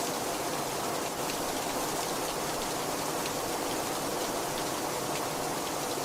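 Very heavy rain falling steadily: a dense, even hiss with scattered individual drops ticking through it.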